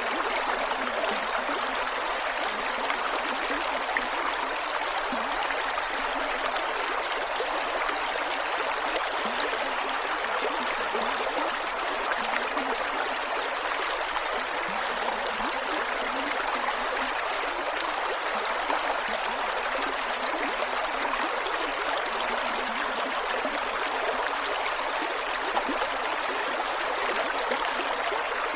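Creek water flowing and gurgling over rocks, a steady rushing babble with no breaks.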